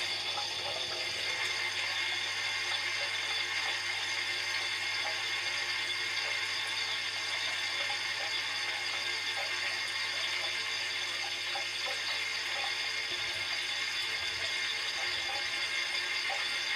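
Dishwasher wash cycle heard from inside the tub: a steady rush of sprayed water splashing over the racks and walls, with a steady low hum underneath.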